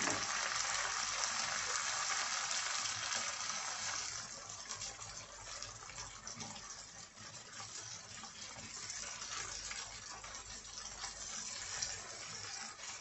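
Diced tomatoes and bell peppers sizzling in oil over high heat in a frying pan. The hiss is loud for the first four seconds, then settles to a quieter sizzle, with a plastic spatula stirring and scraping now and then.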